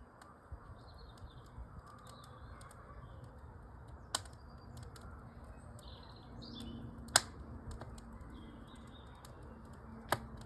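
Wood fire in a fireplace with a low steady rush and three sharp pops spread across a few seconds, while small birds chirp in the background.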